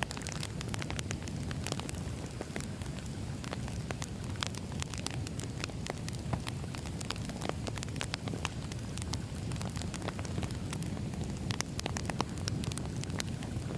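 Campfire crackling: a steady low rumble of burning with frequent sharp, irregular pops and snaps.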